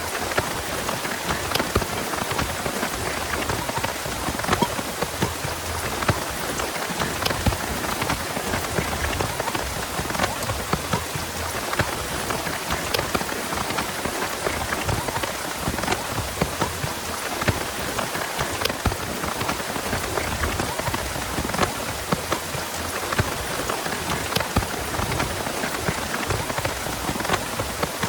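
Heavy rain falling steadily, with many sharp individual drops striking close by.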